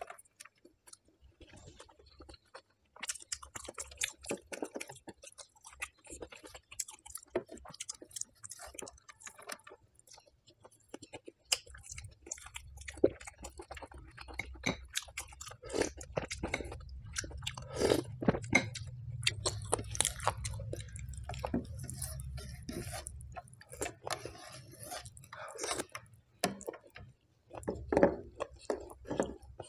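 Close-miked chewing of mouthfuls of rice, eaten by hand: a steady run of wet, clicky mouth sounds with some crunchy bites, and a low rumble underneath through the middle stretch.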